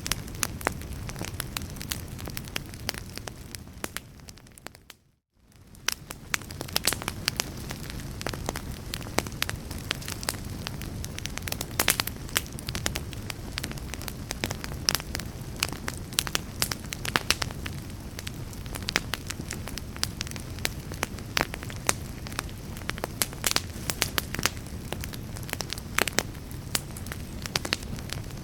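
Fireplace fire crackling, with frequent sharp pops and snaps over a steady low rumble. About four seconds in, the sound fades out to silence and then fades back up within a couple of seconds.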